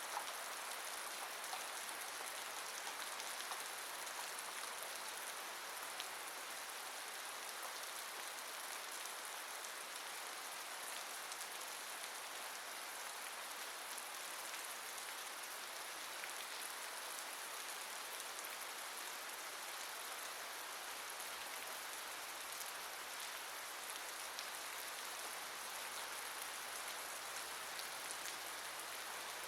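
Steady rainfall, an even hiss of rain with scattered small drop ticks.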